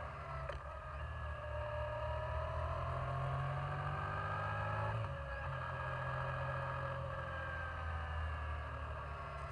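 Yamaha Virago 535's air-cooled V-twin engine running under way, its pitch gliding up and down with speed. The engine note briefly breaks about five seconds in, like a gear change.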